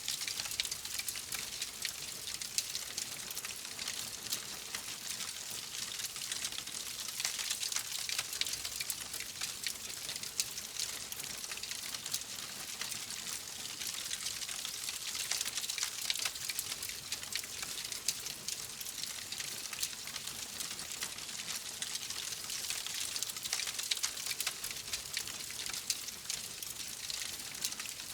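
Wood fire burning in a fireplace: a steady hiss dense with small crackles and pops.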